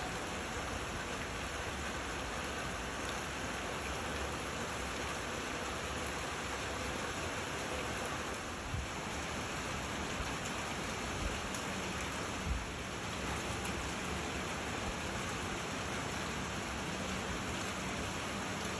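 Steady rain falling, an even hiss. A few soft low thumps come through about nine, eleven and twelve and a half seconds in.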